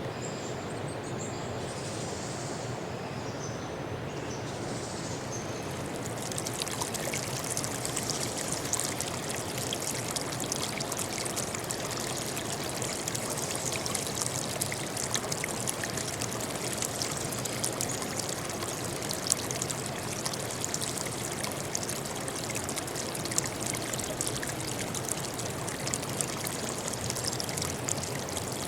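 Running water of a stream, a steady rushing with fine splashing and trickling that grows fuller and brighter about six seconds in. A few faint high chirps sound in the first few seconds.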